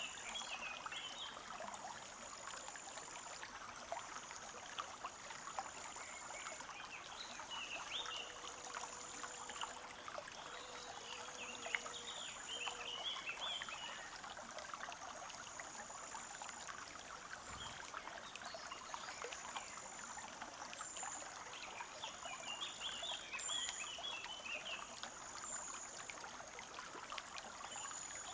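Forest brook trickling steadily. Small birds chirp in several short bursts, over a high, thin trill that repeats in short stretches.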